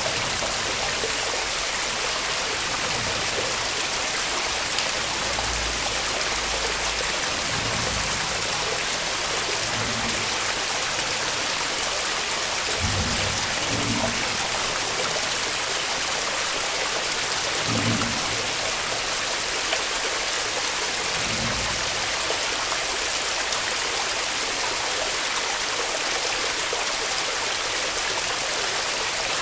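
Waterfall: a steady, even rush of falling water, with a few soft low bumps partway through.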